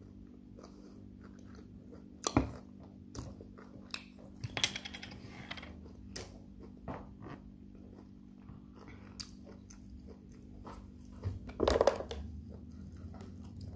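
Close-up chewing and biting of a piece of meat, with wet mouth clicks and small crackles, over a faint steady hum. Two louder sudden sounds stand out, one about two seconds in and the loudest near the end.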